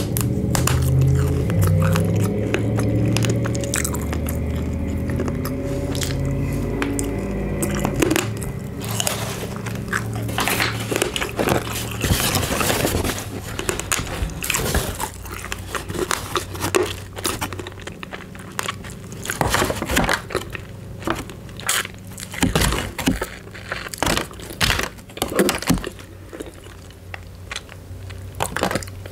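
Close-miked chewing of KFC fried food for the first several seconds, then a run of sharp crinkles and crunches as a KFC paper bag is handled close to the microphone.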